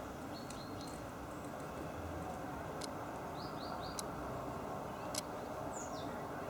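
A few sharp, isolated taps about a second apart, typical of a great spotted woodpecker pecking, with short high bird chirps in between over a steady low background hum.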